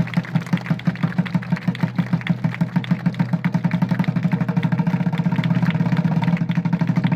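A drum struck in a steady beat that speeds up into a fast, continuous roll, then stops suddenly near the end.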